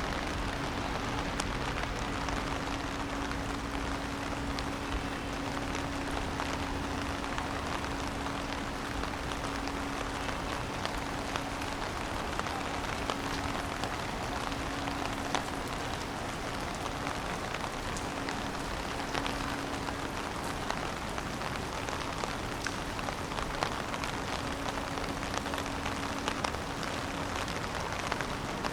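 Steady rain falling, with frequent sharp ticks of individual drops landing close by.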